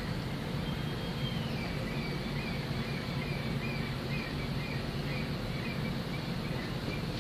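Steady low hum of a cruise ship's engines and machinery, with a small bird singing a run of short high chirps over it from about a second in.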